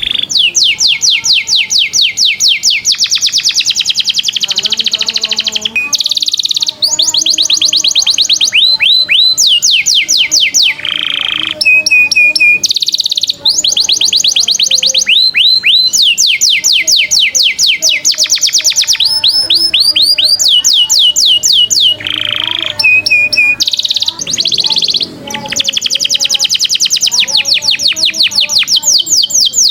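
Masteran recording of songbird song combining canary, cililin and lovebird: long, loud runs of rapid high chirps, about nine or ten a second, each dropping in pitch, broken by brief pauses and a few short held whistles.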